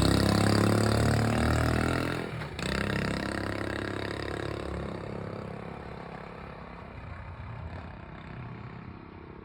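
Honda Super Cub's single-cylinder four-stroke engine pulling away, with a brief dip about two seconds in, then fading steadily as the bike rides off.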